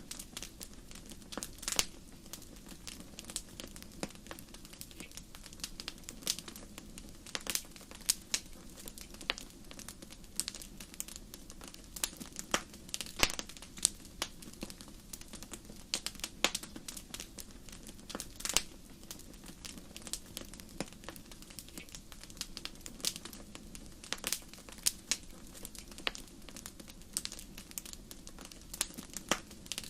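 Wood fire crackling: irregular sharp pops and snaps, a few loud ones, over a soft steady low rumble of flames.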